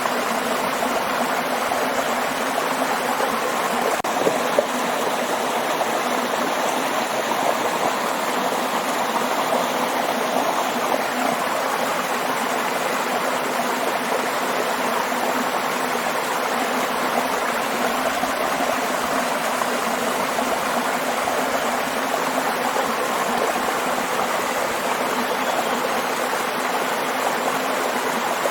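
Waterfall: water rushing steadily and evenly, without pause.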